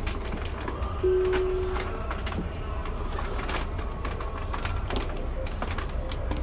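Tobu 9000-series electric train standing at an underground station platform: a steady low hum with scattered small clicks. About a second in, one steady beep sounds for about a second.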